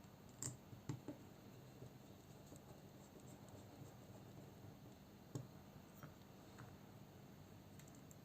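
A few sharp, faint clicks and taps of a folding knife's small parts and a screwdriver being handled: two close together about half a second in, then single ones about five and six seconds in, over near silence.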